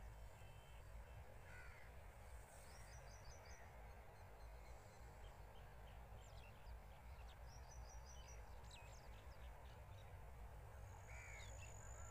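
Faint birds calling over a low steady rumble: scattered calls, with short runs of rapid high chirps a few times.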